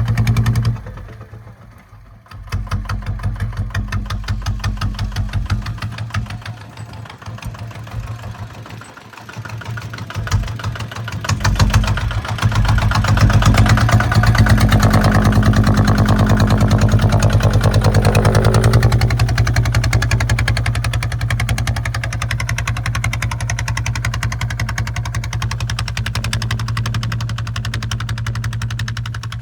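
Kubota ZT155 single-cylinder diesel engine of a two-wheel tractor chugging. It drops low about a second in, runs unevenly, grows louder from about twelve seconds, then runs steadily.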